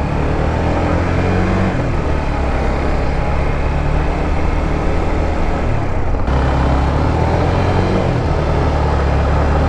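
Small 150cc motorcycle engine running steadily under way, its note holding fairly constant. It breaks off briefly about six seconds in and carries on.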